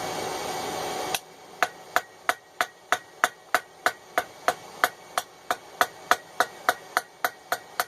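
Hand hammer peening a hot 1/4-inch rivet on a pair of small forged tongs against the anvil, shaping a dome head: quick, even ringing strikes, about three a second. A steady rushing noise stops about a second in, before the strikes begin.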